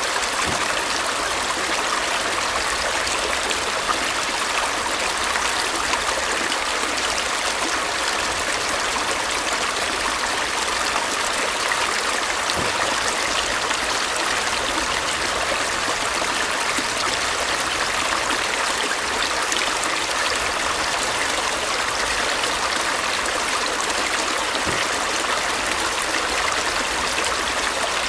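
Stream water flowing and trickling over stones, a steady rushing with no change.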